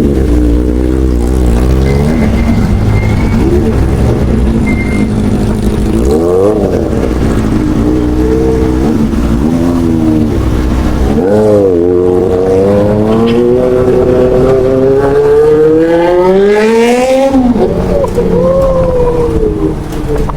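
Honda Super Four motorcycle's inline-four engine revving. It runs steadily at first, then gives a few short throttle blips, then climbs in one long rising rev over about five seconds that drops off sharply before settling lower.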